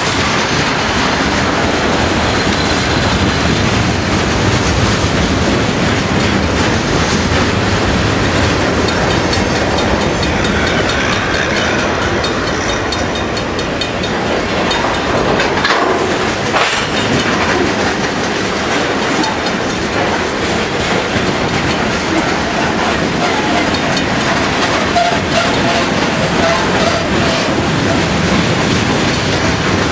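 Freight train cars rolling past slowly: a steady rumble and clatter of steel wheels on the rails as tank cars and hoppers go by.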